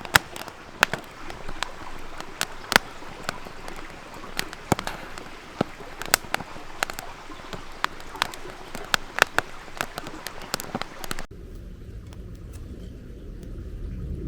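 Wood campfire crackling, with sharp irregular pops over a soft hiss. About eleven seconds in it cuts off suddenly to a steady low rumble.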